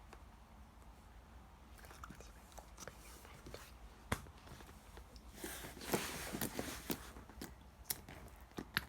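Clear slime being squished and pressed by hand, making scattered sharp wet clicks and pops, with a denser crackly run of squishing a little past halfway.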